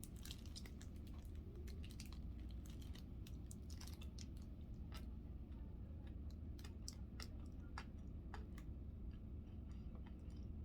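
A person chewing a snack, heard as faint, irregular small mouth clicks over a steady low hum.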